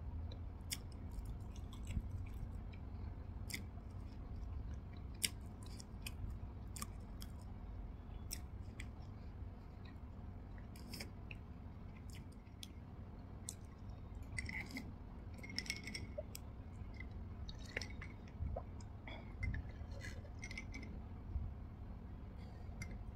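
Close-miked chewing of soft cake, with many short, sharp wet mouth clicks and lip smacks. Near the end come sips of juice from a glass.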